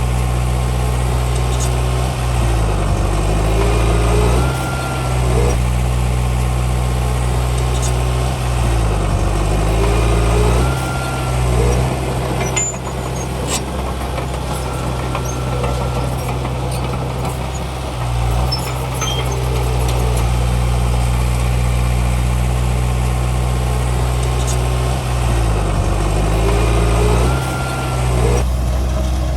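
Komatsu D31P bulldozer's diesel engine running steadily under work. Its note sags and recovers three times, about 3 s, 9 s and 26 s in, as the load comes on and off.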